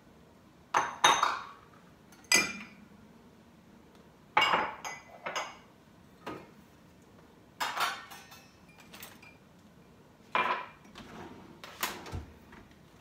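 Dishes and cutlery clinking and clattering as clean dishes are taken out of a dishwasher and put away: about ten separate sharp knocks, some with a short ringing tail.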